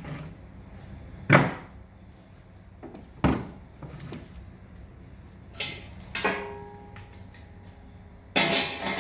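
Scattered knocks and clanks of metal being handled on a shop bench, one of them ringing briefly about six seconds in; near the end a louder, denser run of sound sets in.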